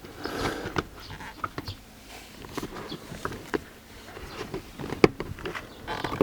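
Hands handling the exposed seat-back frame and trim: scattered light clicks and knocks, with one sharper click about five seconds in.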